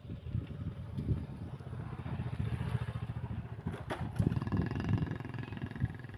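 An engine running, much like a motorcycle's, with dense uneven low pulsing. A faint steady whine comes in about halfway.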